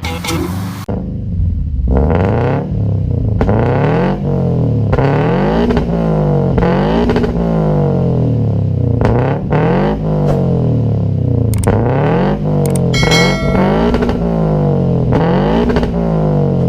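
Ford Lynx's exhaust through its muffler as the engine is revved over and over, the pitch rising and falling about once a second.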